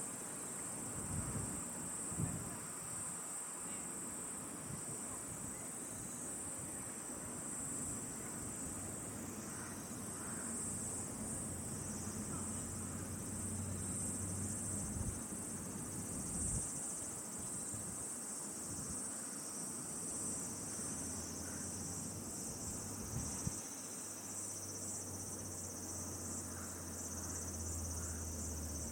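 Insects chorusing: a steady high-pitched trill with no breaks, over a faint low rumble.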